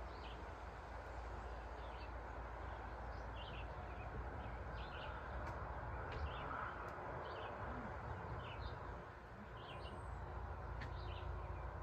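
Small birds chirping in short, scattered calls, about one or two a second, over a steady low rumble.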